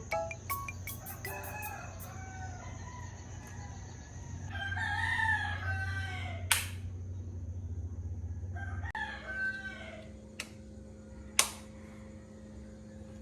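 Rooster crowing twice: a long crow about four seconds in and a shorter one about nine seconds in, with a couple of sharp clicks and a steady low hum.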